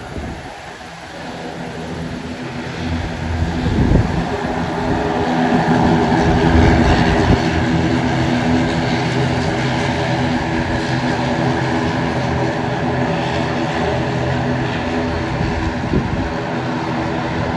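Passenger airliner's engines running with a steady drone of stacked tones. The sound grows louder over the first five or six seconds, then holds steady.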